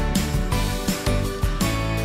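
Upbeat background music with plucked guitar and a steady beat.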